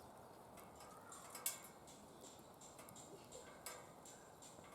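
Wood fire crackling in a DOD Mecha Moe Fire secondary-combustion fire pit: a faint, steady hiss of burning with a few sharp pops, the loudest about a second and a half in and another near the end.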